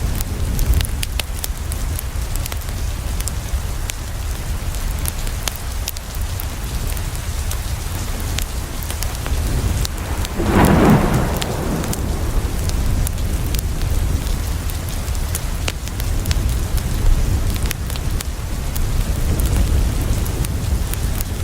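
Steady heavy rain with a continuous low rumble and many small sharp ticks throughout. About halfway through, a single rumble of thunder swells up and fades within a second or two.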